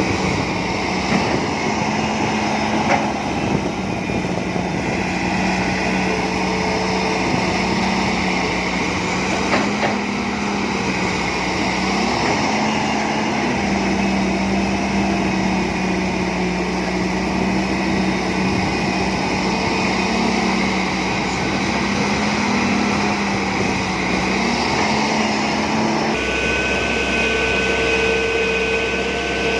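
John Deere 595D excavator's diesel engine running steadily under working load, its pitch wavering up and down, with a few sharp knocks. Near the end a steady high whine joins in.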